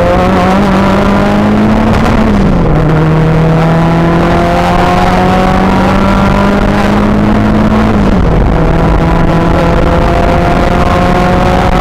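Rally car engine heard from inside the cabin, pulling hard under full acceleration, its note climbing slowly. It drops sharply on an upshift about two seconds in and again about eight seconds in.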